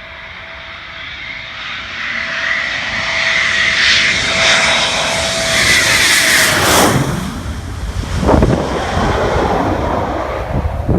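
Military jet passing close by: a steady engine whine that grows louder, then drops sharply in pitch as the jet goes past about six to seven seconds in, leaving the rumble of the engines going away.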